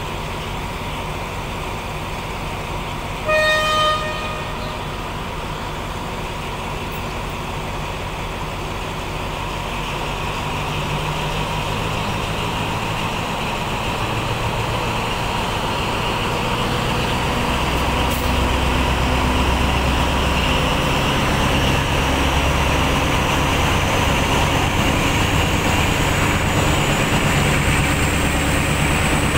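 Diesel-hauled passenger train pulling out, heard from beside the carriage: one short horn toot about three seconds in, then the engine rumble grows louder and a high whine climbs steadily in pitch as the train picks up speed.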